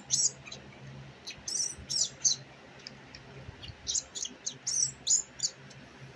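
A baby monkey squeaking: short, high-pitched chirps in quick runs, one cluster about a second and a half in and another near the end.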